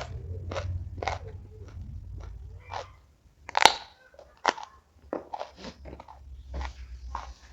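Close-up chewing of crisp food: irregular crunches about two a second, the loudest about three and a half seconds in.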